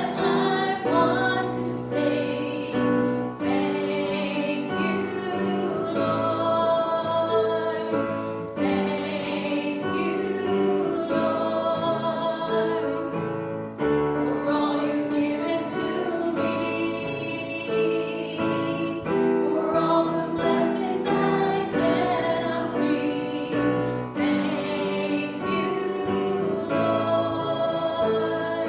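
A congregation or choir singing a gospel hymn with instrumental accompaniment.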